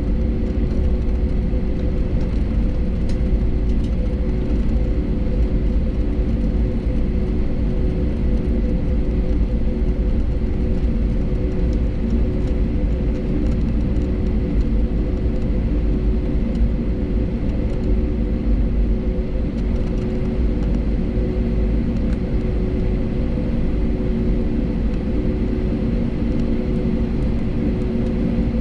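Cabin noise inside an Airbus A320neo taxiing after landing: a steady rumble from the Pratt & Whitney geared turbofan engines at taxi power and the rolling airframe, with a constant low hum running through it.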